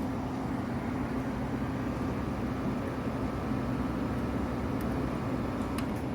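Vintage Fedders window air conditioner running on high fan with the compressor on: a steady hum under an even rush of air, with a few faint clicks near the end.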